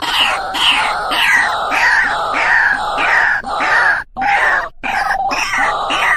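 White-breasted waterhen (truwok) giving its loud, harsh, repeated 'ruwak-ruwak' call: a run of notes about two a second, each falling in pitch, with short breaks in the second half.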